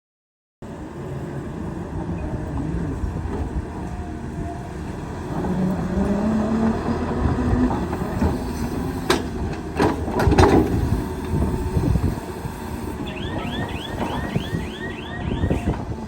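Excavator's diesel engine running under load, its hum rising in pitch for a moment, with a few sharp metallic knocks about two-thirds of the way in. A quick run of about ten high chirps follows near the end.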